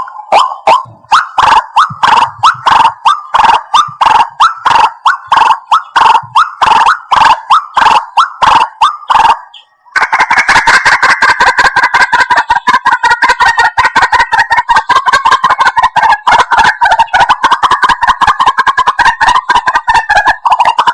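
White-breasted waterhen calls: a run of loud repeated notes at about three a second. After a short break near the middle, a much faster, denser series of calls follows.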